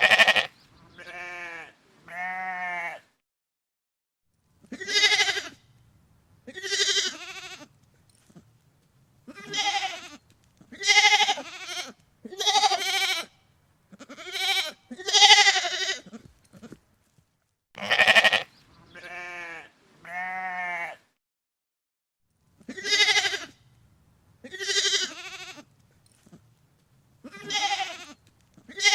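An animal bleating again and again, about fifteen calls of roughly a second each, with a quavering pitch and short pauses between.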